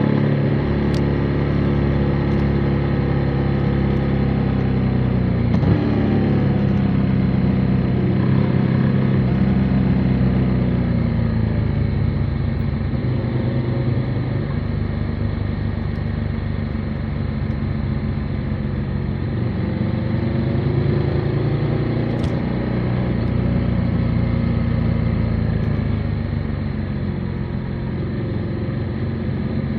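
Motorcycle engine running under way, its pitch sliding down and back up as the rider eases off and opens the throttle.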